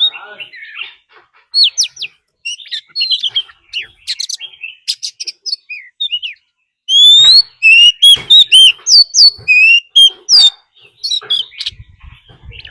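Oriental magpie-robin singing: a run of varied, rapid whistled notes, slurred sweeps and chattering trills, growing loudest from about seven seconds in. Sung as a decoy's fighting song, the kind used to provoke rival magpie-robins.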